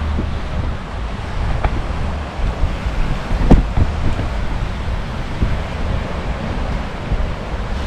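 Wind buffeting the microphone in a steady low rumble over the hiss of surf on the beach, with a single sharp knock about three and a half seconds in.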